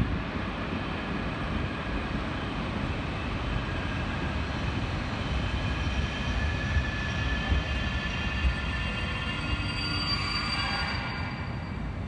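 An EU07-family electric locomotive hauling passenger coaches rolls slowly into the platform with a steady low rumble. From about halfway through, a high-pitched squeal of braking wheels comes in, made of several steady tones, and is loudest near the end.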